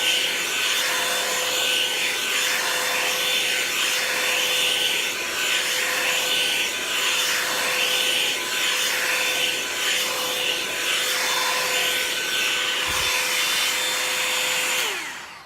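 Revlon paddle-brush blow dryer running on high, a steady motor hum under a rush of air, its bristles dragged through hair. Near the end it is switched off and the motor winds down, falling in pitch.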